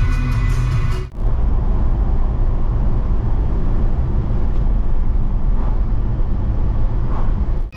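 Background music that cuts off about a second in, giving way to a loud, steady low rumbling noise.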